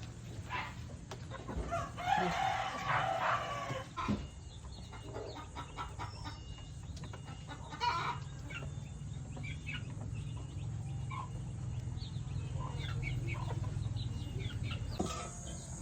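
Chickens clucking, with a rooster crowing about two seconds in, over a steady low hum.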